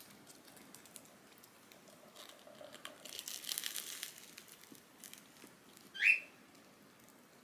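Crinkling rustle with light clicks for about a second, then one short, sharp, rising bird chirp near the end.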